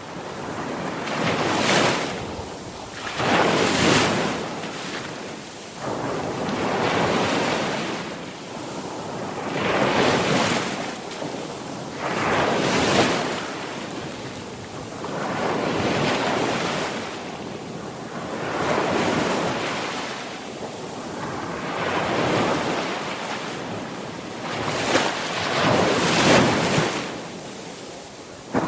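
Sea waves breaking on a shore, each surge swelling up and washing back, about one every three seconds.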